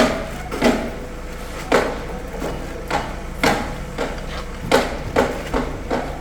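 Bags of cement landing on a stack or truck bed as they are unloaded, about ten irregular thuds and slaps. Underneath is a steady low engine hum.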